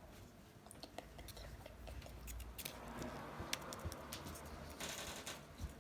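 Small things being handled by hand: scattered light clicks and taps with a soft rustle, louder in the second half.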